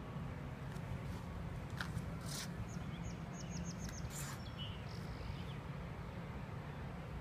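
Outdoor ambience: a steady low rumble with a bird chirping above it, a quick run of four short high chirps about three seconds in, and a few other brief high sounds scattered through.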